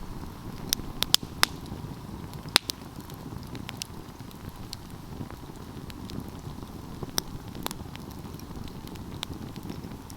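Wood fire burning: a steady low rush of flames with sharp crackles and pops scattered irregularly through it, a cluster near the start and the loudest pop about two and a half seconds in.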